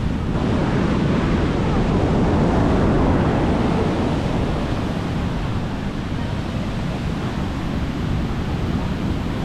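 Sea waves washing onto a beach: a continuous rush of surf that swells a little about two to three seconds in.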